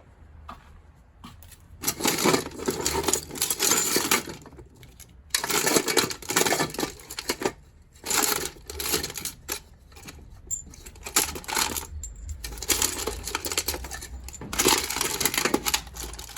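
Small metal scrap parts clinking and clattering as they are handled and sorted, in about five bouts of a second or two each.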